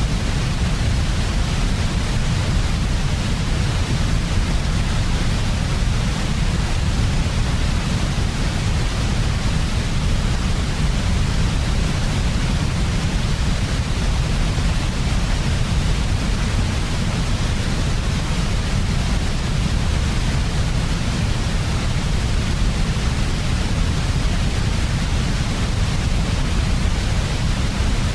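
Steady, unchanging noise generated for sleep, strongest in the deep low end, with a softer even hiss above.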